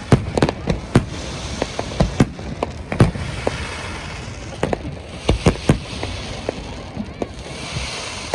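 Aerial fireworks going off in an irregular rapid series of sharp bangs, some louder than others, with a steady crackling hiss of bursting shells between them.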